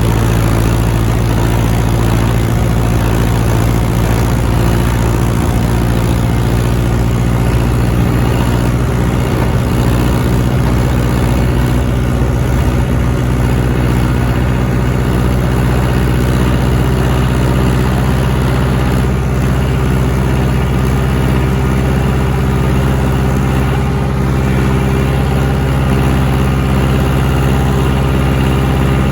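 John Deere tractor's diesel engine running steadily at a constant speed, a low hum with no change in pitch or level.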